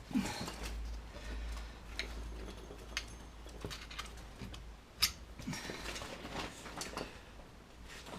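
Scattered clicks, knocks and short scrapes of hand work on a car's rear wheel hub during fitting, as tools and parts are handled, with a sharp single knock about five seconds in.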